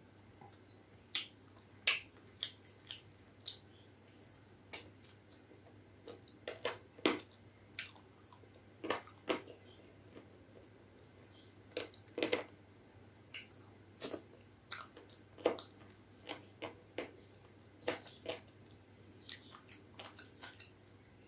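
Close-up eating sounds of khichdi and chicken curry: irregular wet mouth clicks and chewing, a few louder smacks, over a low steady hum.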